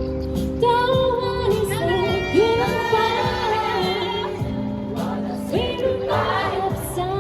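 Choir singing live over an accompaniment, with a long high note held with vibrato in the middle.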